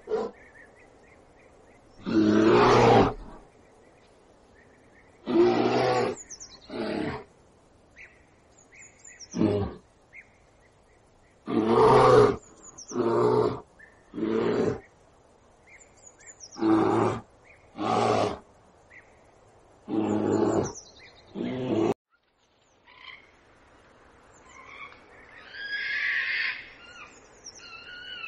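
A big cat roaring in a series of short, deep calls, each about a second long and one to three seconds apart. After a sudden cut near the end, fainter bird calls follow.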